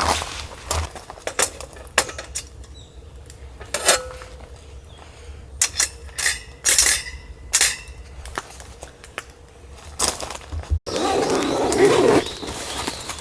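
Scattered clinks and knocks of dishes and utensils being handled, one clink ringing briefly about four seconds in. Near the end comes a louder, rougher noise lasting about a second.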